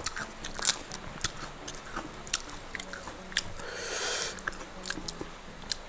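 Close-up mouth sounds of chewing crunchy fried tempeh, an irregular run of sharp crackling crunches. There is a short rushing noise about four seconds in.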